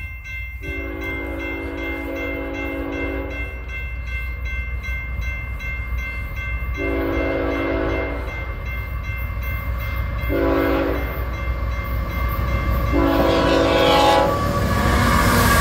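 BNSF ET44C4 locomotive horn sounding the grade-crossing signal, long, long, short, long, as the train approaches the crossing. Underneath, the train's rumble grows louder toward the end, with a crossing bell ringing steadily.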